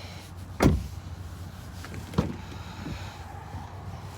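Two thuds of a pickup truck's doors: a loud one about half a second in and a smaller one about two seconds in.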